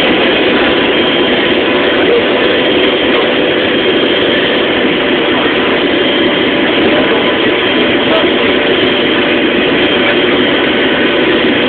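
Steady, loud drone of running aircraft machinery: a constant rushing noise with a few steady whining tones and no change in pitch or level.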